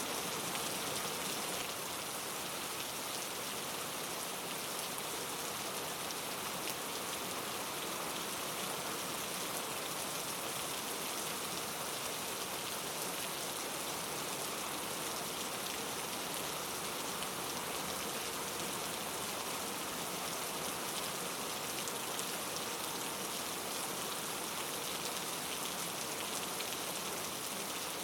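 Steady rain falling, an even hiss of many small drops pattering on a surface, with no thunder.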